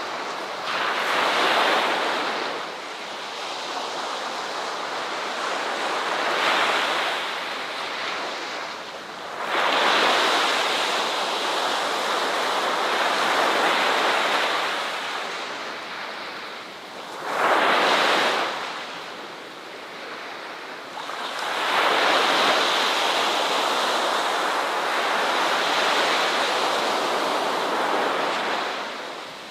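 Ocean waves breaking and washing up a beach, rising and falling in a handful of surges, a short sharp one about two-thirds of the way in and a long wash near the end.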